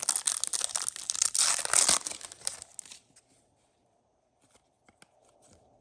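A trading-card pack wrapper being torn open and crinkled: a dense crackling rip for about three seconds, then near quiet with a few faint handling clicks.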